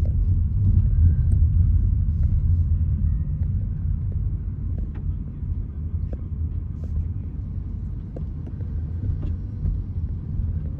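Steady low rumble of a car driving, heard from inside the cabin: engine and road noise, with a few faint light clicks.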